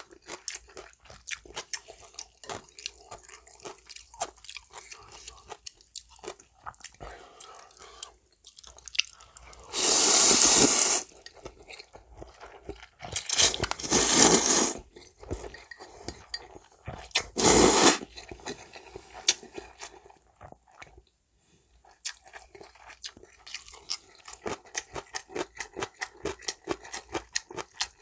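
Close-miked eating of janchi-guksu noodle soup: quick wet chewing and crisp crunches of the vegetable toppings, with three loud slurps about ten, fourteen and eighteen seconds in.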